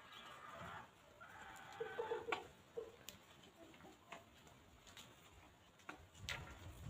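Hens clucking faintly in a short run of low notes about two seconds in, with scattered sharp ticks of beaks pecking.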